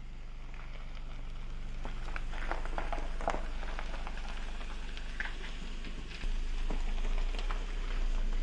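Kia SUV engine idling, a low steady hum that grows louder about six seconds in, with scattered light clicks and crackles over it.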